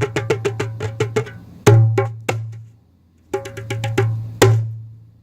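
Djembe hand drum played: a fast run of strokes, then two loud hits that leave a low ring. After a brief pause come a few more strokes and a final loud hit that rings out and fades.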